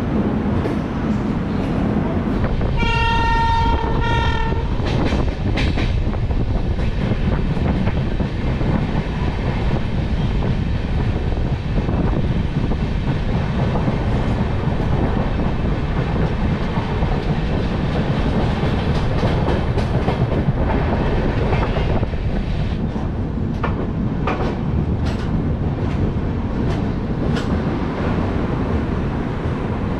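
Passenger train running, heard from beside an open coach door: a horn sounds for just under two seconds about three seconds in, with a short break near its end, over steady wheel rumble and clickety-clack on the rails. A series of sharper clicks comes in near the end.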